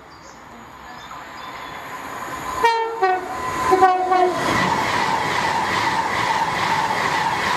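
A train approaches and sounds its horn, two short blasts about a second apart, then runs through close by with a loud steady rush of wheel and rail noise and a high ringing tone.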